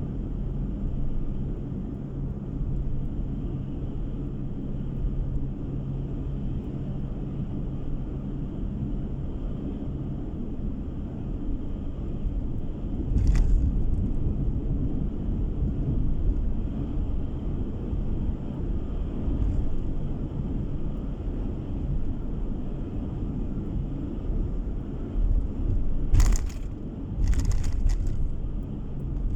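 Steady low road and engine rumble of a car being driven, heard from inside the car, with a brief knock about halfway through and two more near the end.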